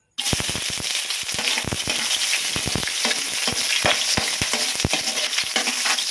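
Food sizzling in a hot pan while being stirred, the utensil knocking against the pan many times; the sound cuts in abruptly just after the start.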